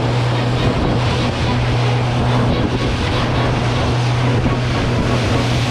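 Motorboat running at speed over open water: a steady low engine hum under the rush of water and wind buffeting the microphone.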